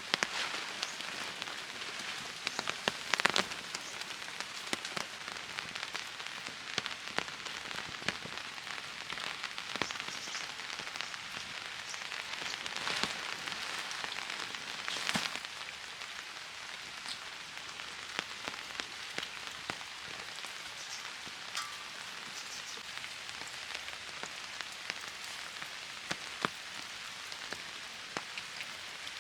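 Steady rain falling, with scattered sharper drops or taps and a few louder hits, one about three seconds in and one about fifteen seconds in.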